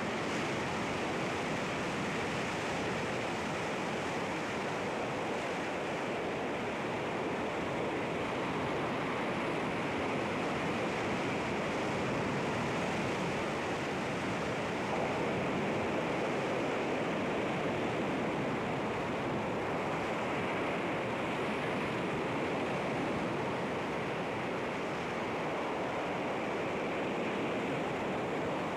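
Sea waves washing against rocks, a steady rushing surf with only slight swells in level.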